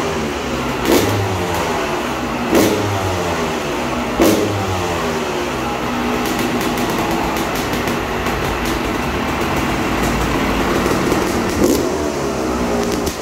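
Yamaha YZ 250 single-cylinder two-stroke engine being revved in sharp blips about every second and a half, then running more steadily, with one more blip near the end.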